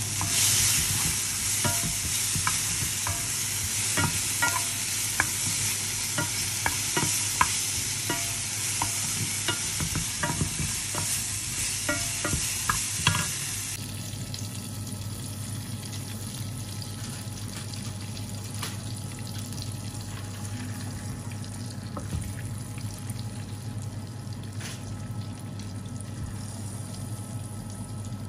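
Sliced red peppers sizzling as they fry in a pan, with a wooden spoon clicking and scraping against the pan as they are stirred. About fourteen seconds in, the sizzle drops suddenly to a quieter, softer frying of flour tortillas warming in bubbling fat.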